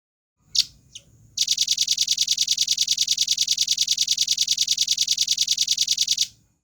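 Velvet-fronted nuthatch singing: two short high notes, then a fast, even, high-pitched trill of about ten notes a second that lasts about five seconds and stops abruptly.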